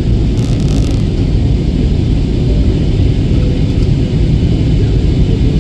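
Steady, loud low rumble of an airplane.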